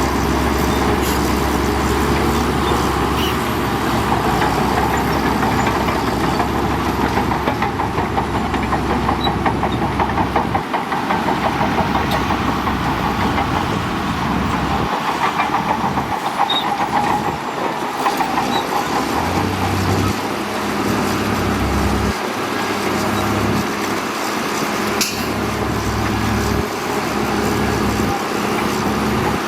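Heavy diesel earthmoving machinery at work: the engine runs steadily under a continuous rattle, and its low note shifts about ten seconds in and again about twenty seconds in.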